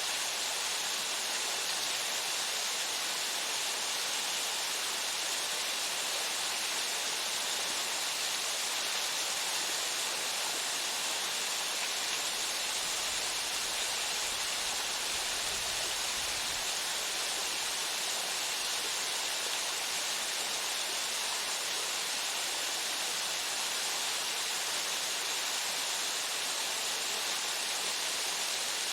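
Waterfall: steady rushing and splashing of water falling onto rock and into a pool, an even hiss with no breaks.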